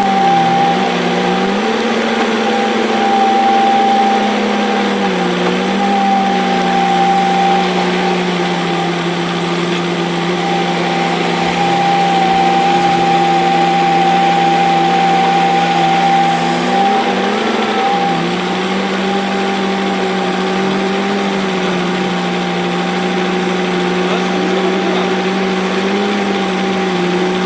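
Tractor engine running at a steady speed, its pitch dipping briefly and recovering a few times.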